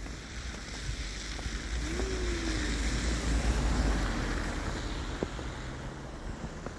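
Wind buffeting the microphone over a steady outdoor rush, swelling in the middle, with a brief faint tone that rises and falls about two seconds in.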